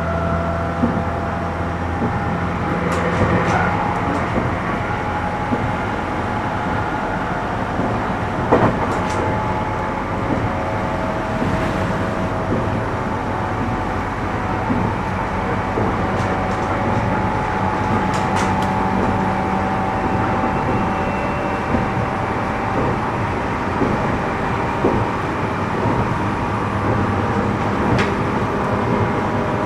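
Running sound inside a passenger car of a JR 211 series 3000 subseries electric train travelling between stations: a steady hum of motors and rail noise, with a few sharp clicks of the wheels over rail joints.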